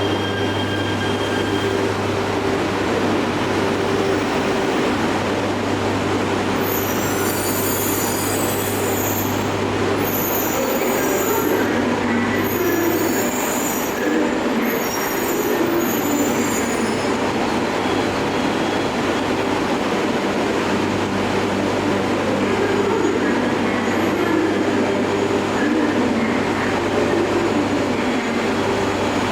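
Shinkansen train moving slowly through the station with a steady running hum. Between about 7 and 17 seconds in, high-pitched wheel squeal comes and goes.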